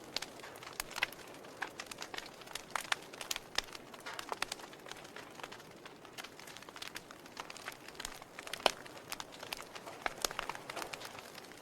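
Wood logs burning in a fireplace, crackling steadily with irregular sharp pops over a soft hiss; one louder pop about two-thirds of the way through.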